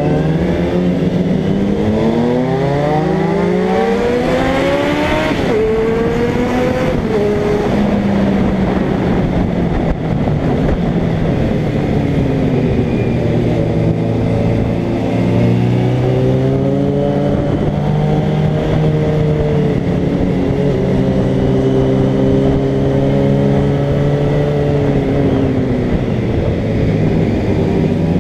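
Suzuki Bandit 650 inline-four motorcycle engine under way, heard from the rider's seat with wind noise: it revs up through the first few seconds, drops sharply, then pulls at a steadier pitch with another climb about halfway and a fall near the end.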